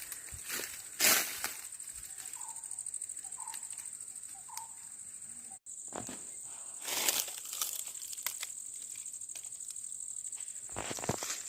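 Steady, high-pitched drone of insects in the forest, finely pulsing, with a few short chirps in the first half. Louder bursts of rustling come about a second in, around six to seven seconds in, and near the end.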